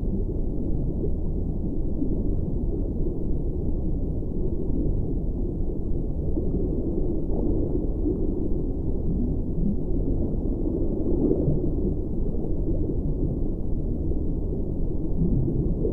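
A steady, low, muffled rumbling drone with faint wavering tones drifting through it.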